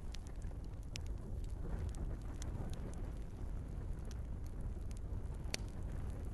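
Wood fire burning in a fireplace: a low, steady rumble of flames with scattered crackles of burning logs. There is a sharper pop about a second in and the loudest one near the end.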